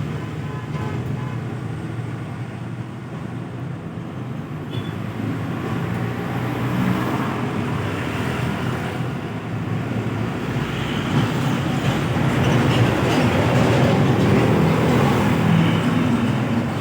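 Highway traffic with heavy vehicle engines running, growing louder in the second half as a vehicle passes close.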